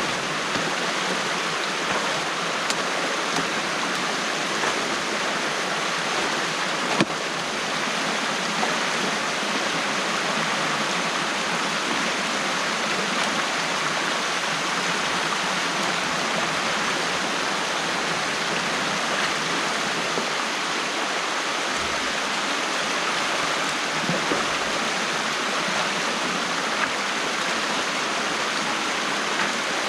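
Stream water rushing steadily through an opening in a beaver dam, with one sharp knock about seven seconds in.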